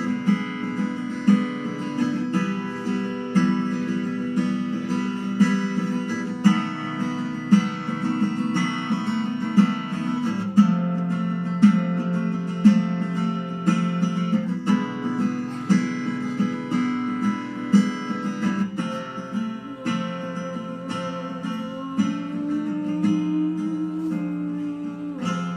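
Acoustic guitar strumming chords in an instrumental break of a song, the chord changing about every two seconds.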